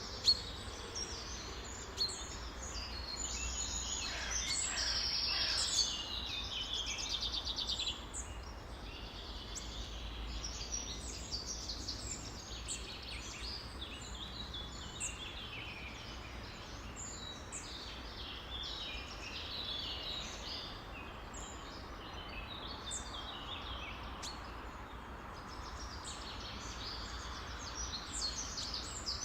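A dense chorus of many songbirds chirping and singing over one another, with a rapid trill a few seconds in, over a steady low hum.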